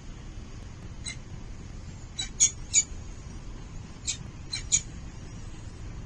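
Falcon chicks giving short, high-pitched cheeping calls in two little groups of two or three, with one call before them, over a steady low background rumble.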